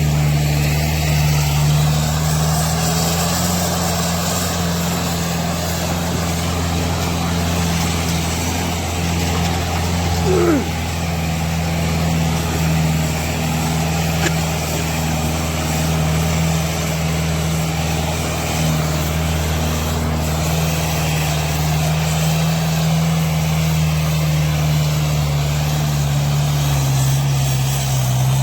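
Tractor diesel engine running steadily under load while pulling a double harrow, with a short swooping sound about ten seconds in.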